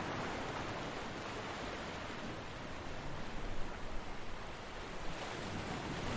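Ocean surf washing onto a beach: a continuous rushing hiss of breaking waves that eases a little midway and swells again in the second half.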